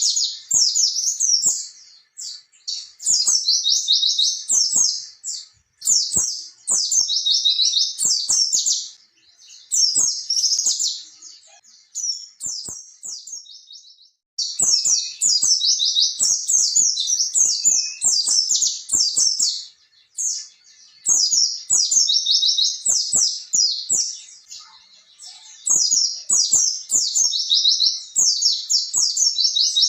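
White-eye (pleci) singing a fast, high, twittering song in bouts of a few seconds each, with a quieter pause about halfway through.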